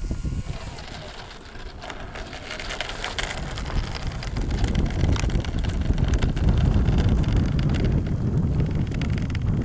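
Strong wind buffeting the microphone in a loud, rumbling rush. A thin, high, steady whine from the electric model plane's motor cuts off about half a second in, and its pitch falls away afterwards.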